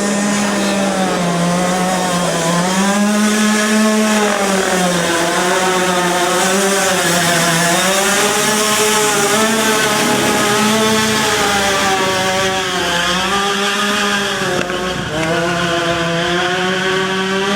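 Racing engine running at high revs up the hill-climb course. Its pitch rises and falls over and over, about every one to two seconds.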